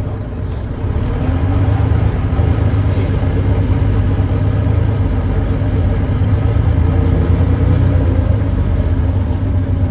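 Volvo D9B 9.3-litre diesel engine of a Volvo B9TL double-decker bus running steadily, getting louder about a second in. The bus has a known exhaust leak.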